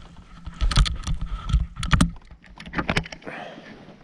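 A few sharp knocks and rattles of gear being handled in a canoe, clustered about a second in, at two seconds and at three seconds.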